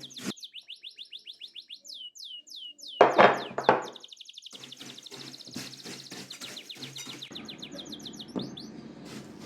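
A small bird chirping and singing, a rapid run of high falling notes, with a loud cluster of knocks about three seconds in.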